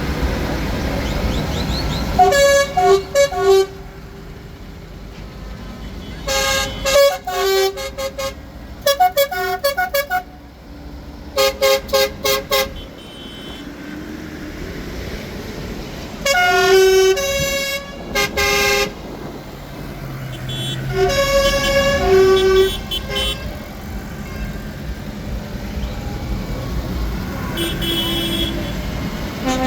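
Vehicle horns tooting again and again in short blasts and quick clusters, over the steady low running of passing engines.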